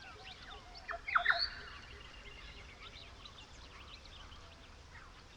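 Wild birds calling: many short chirps throughout, with one bird's loud phrase of several sharp falling notes about a second in.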